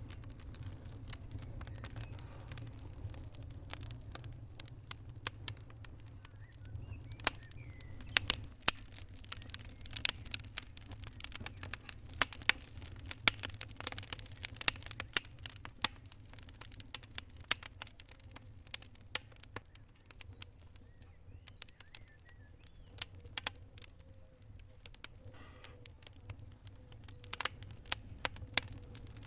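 Wood fire crackling, with irregular sharp pops and snaps that come thickest in the middle of the stretch, over a steady low rumble.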